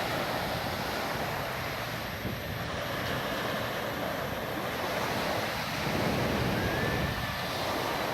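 Sea waves washing onto a sandy beach in a steady rush of surf, a little louder about six seconds in.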